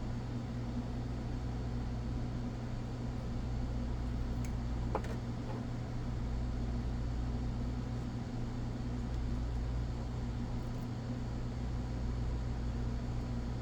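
Steady low mechanical hum in a small room, with one small click about five seconds in.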